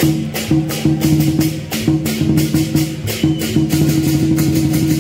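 Lion dance percussion: a large drum beaten with clashing cymbals in a fast, steady rhythm of several strokes a second, over a sustained low ringing.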